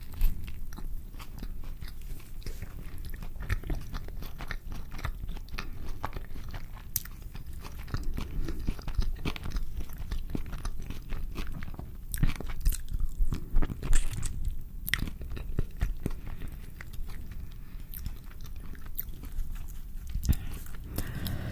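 Close-miked eating of a carne asada burrito: a bite into the tortilla at the very start, then steady wet chewing with many small, irregular mouth clicks.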